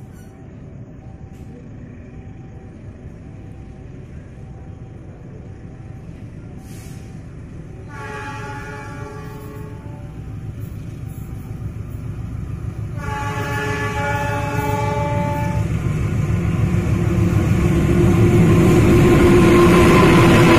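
Train horn sounding two blasts, one about eight seconds in and a longer one about thirteen seconds in. Between and around them the rumbling of a train gets steadily louder and is loudest near the end.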